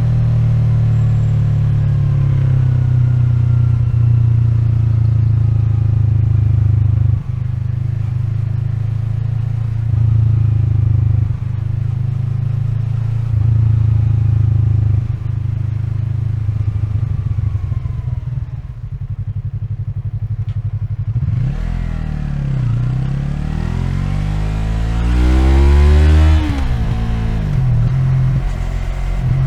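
Yamaha MT-03's 321 cc parallel-twin engine running at steady low revs for most of the stretch, then revving up and back down twice near the end, the second rise louder.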